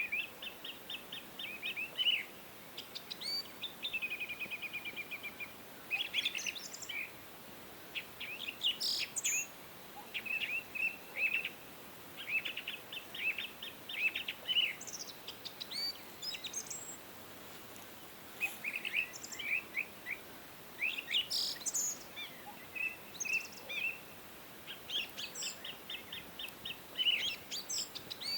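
Several songbirds singing: phrases of quick chirps and trills, a second or two each with short gaps between, over a faint steady background hiss.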